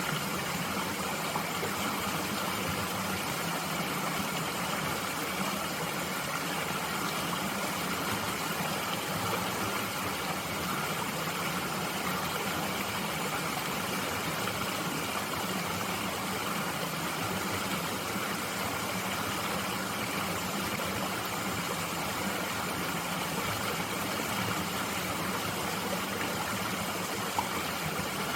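Mountain stream flowing steadily, an even rushing of water with no breaks.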